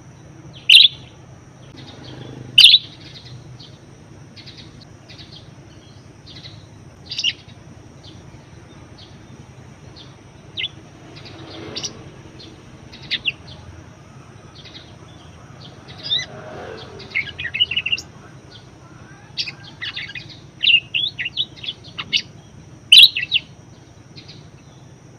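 Budgerigars chirping: short, sharp chirps scattered throughout, a few of them loud, with quick runs of warbling chatter past the middle and again near the end, over a faint steady hum.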